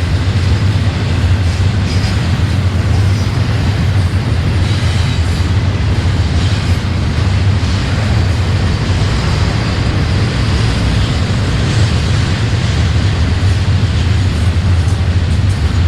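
Freight train rolling past on the rails, a steady loud rumble with a strong low hum.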